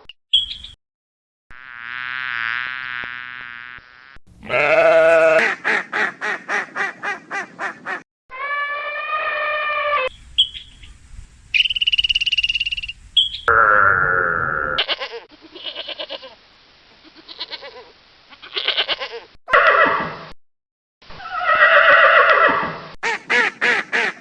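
A string of different animal calls edited back to back, each starting and stopping abruptly. There are several pitched cries, some falling in pitch, and about a third of the way in a call breaks into a rapid pulsing series of about five pulses a second.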